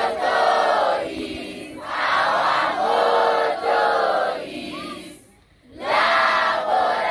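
A group of voices singing together in short, loud phrases, with a brief break about five seconds in.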